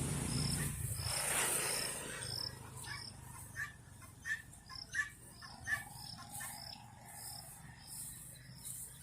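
Animal calls: a high chirp repeats evenly, under twice a second, and about halfway through four short, sharper calls come in. A louder rushing noise fills the first two seconds.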